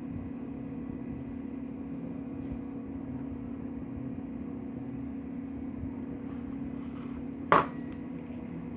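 A steady low hum with one sharp click about seven and a half seconds in.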